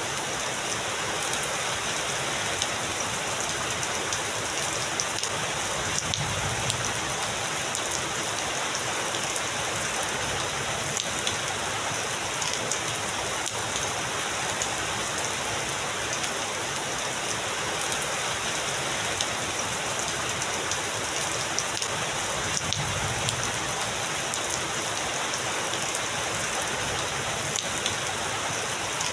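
Heavy rain falling steadily, a dense hiss of drops hitting surfaces with many small ticks. Two faint low rumbles of distant thunder come about six seconds in and again about twenty-three seconds in.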